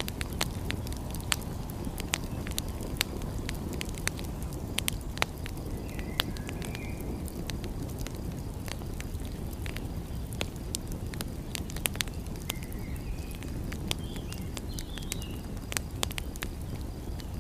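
Wood fire crackling: irregular sharp pops and snaps over a steady low rush, with a few faint high squeaks now and then.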